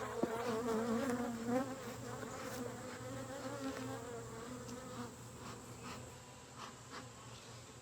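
Honeybees buzzing as they fly close by, with a wavering hum as single bees pass. It is loudest in the first second or two, then fades. These are agitated bees from a colony that is unhappy at being disturbed during a hive inspection.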